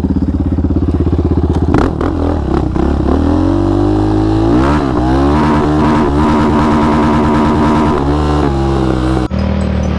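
Yamaha Raptor 700 quad's big-bore 734 single-cylinder engine with Monster exhaust running with a lumpy idle, then revving up and pulling away from about three seconds in, holding a steady pitch for a few seconds before easing off. The sound changes abruptly near the end.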